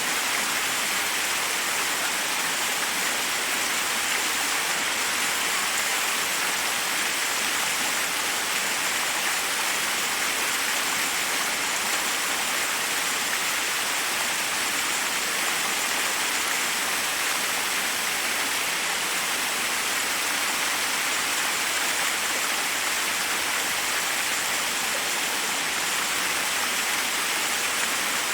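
Forest waterfall: water rushing steadily over rocks, an even, unbroken hiss that stays the same throughout.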